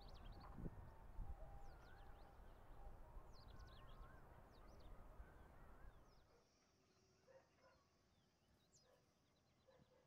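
Faint bird calls: many quick, high chirps with some wavering whistled notes, over a low rumble that drops away about six seconds in.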